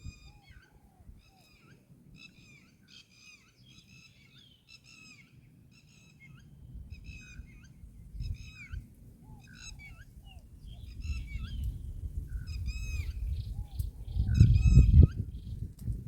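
Birds calling over and over in short, high, pitched calls, with a low rumbling noise underneath that builds up and is loudest near the end.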